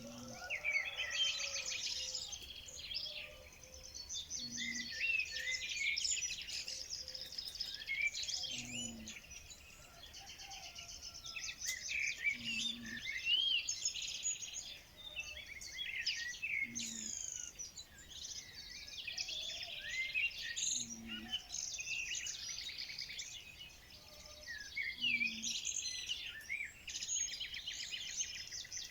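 Many songbirds singing at once, with quick whistled, chirped and trilled phrases overlapping. Underneath, a short low note repeats about every four seconds.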